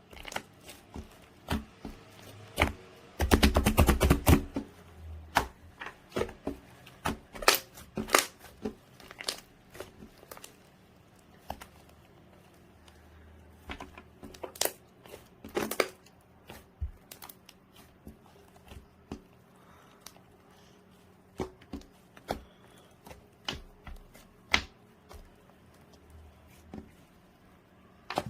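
Two-tone slime being pressed, stretched and poked by hand, giving off uneven sticky clicks and little air-bubble pops, with a dense burst of crackling a few seconds in.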